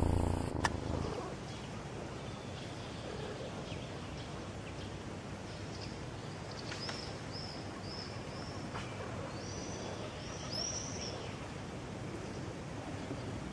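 Steady outdoor background noise with a small bird calling: a run of short, high chirps about halfway through, then two or three longer ones. A low sound fades out within the first second.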